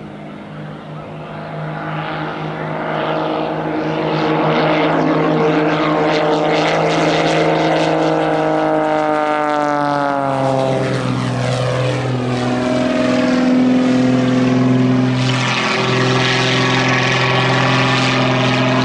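Pitts Special S-2S aerobatic biplane taking off: its six-cylinder Lycoming engine and propeller at full power grow louder as it rolls, then drop in pitch as it passes about ten seconds in, and keep running steady and loud.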